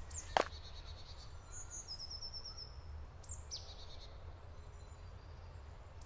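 Faint woodland birdsong: a short trill of quick repeated high notes about a second and a half in, then a couple of falling calls near the middle, over a steady low rumble. A single sharp knock just after the start.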